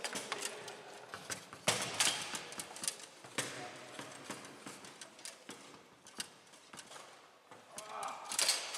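Foosball play on a Bonzini table: irregular sharp clacks and knocks of the ball being struck by the rod figures and hitting the table, with a murmur of voices behind.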